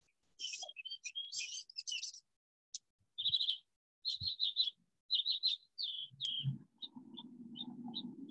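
Small birds chirping and twittering in quick runs of short calls. From about six seconds in, a low steady hum joins underneath.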